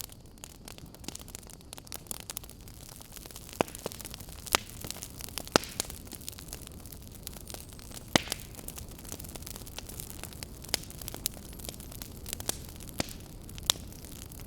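Wood fire burning in a fireplace: a steady low hiss of flames with irregular sharp crackles and pops, the loudest a few seconds in, around the middle and near the end.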